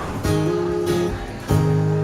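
Acoustic guitar strumming chords in a short instrumental gap of a live song, with a new chord struck about one and a half seconds in.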